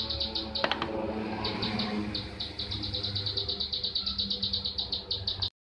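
Bee-eater lure calls: a rapid, even series of short high chirps, about ten a second, with a light click about half a second in. The calls cut off abruptly shortly before the end.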